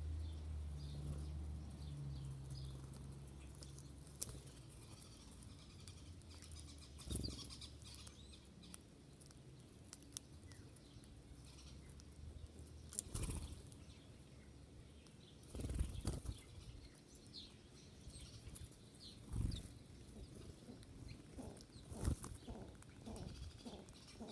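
Wild birds' wings flapping in short bursts, about five times several seconds apart, with faint high chirps between. A low hum sounds in the first few seconds.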